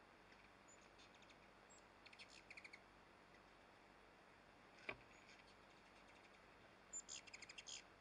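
Faint, high bird chirps in two quick runs of rapid notes, about two seconds in and again near the end, with a single sharp click about five seconds in.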